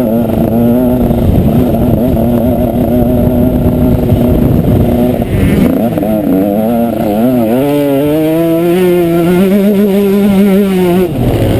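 Motocross bike engine running hard: it holds a steady pitch for about five seconds, dips as the throttle comes off, then climbs again in wavering revs before easing off near the end.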